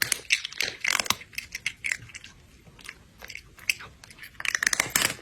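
Close-up crunchy chewing and biting: irregular crisp crunches, sparser in the middle and coming thick again near the end.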